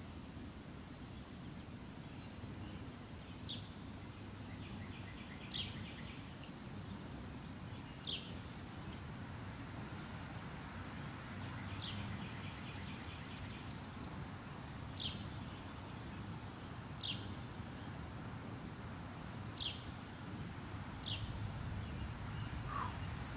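Songbirds calling: short sharp downward-sliding chirps repeated every two to three seconds, with a couple of rapid trills and brief high whistles, over a steady low background rumble.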